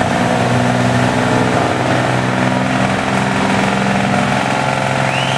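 Diesel pulling truck's engine idling steadily at the hook before the launch.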